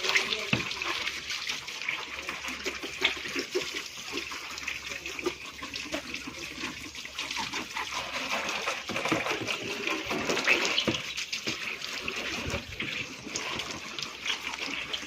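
Water from a hose spraying and splattering onto a car while it is being washed: a steady hiss with uneven patters and drips.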